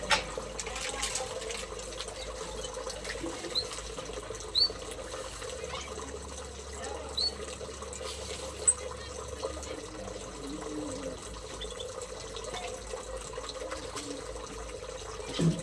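Small aviary birds giving a few short, high chirps here and there over a steady watery background noise.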